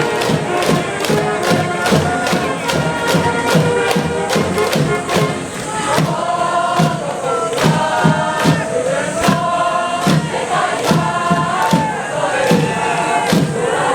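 School cheering section at a high school baseball game: a band playing a fight song over a steady drum beat, with a crowd of students chanting and singing along.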